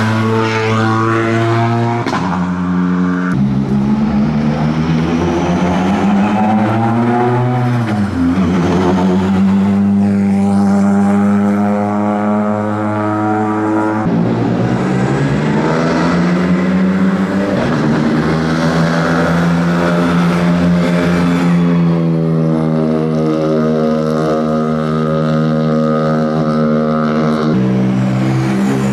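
Rally car engines running at low, steady revs, several cars in turn, the engine note changing abruptly every few seconds. About six to eight seconds in, the revs rise slowly.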